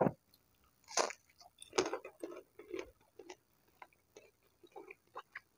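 Close-miked chewing of battered fried tempeh: irregular wet mouth sounds, with louder bites at the very start, about a second in and just under two seconds in.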